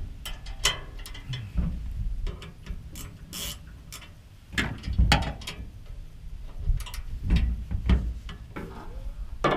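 A ratcheting tool clicking in short, irregular runs while a bolt on a motorcycle hitch rack is tightened, with metal knocks between the runs.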